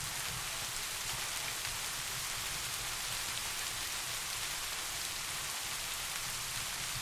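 Steady rain falling, an even hiss with no breaks, over a steady low rumble.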